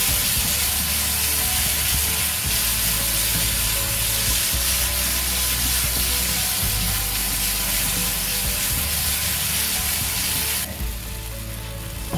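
Spice and chilli masala paste frying in ghee in a pan, sizzling steadily while a wooden spatula stirs and scrapes it around. The paste is at the stage of being cooked until the oil separates. The sizzle drops off suddenly near the end.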